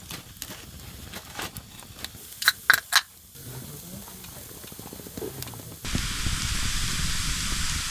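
Fatty beef large intestine (daechang) grilling: a few sharp clicks about two and a half to three seconds in, then a steady sizzling that starts suddenly about six seconds in.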